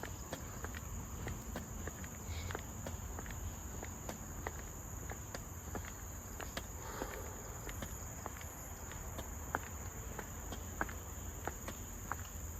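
A steady high-pitched drone of insects, with footsteps clicking on the walkway throughout and a low rumble beneath.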